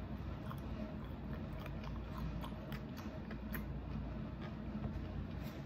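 A person chewing a mouthful of crisp-fried birria taco close to the microphone: scattered soft clicks and smacks, over a low steady hum.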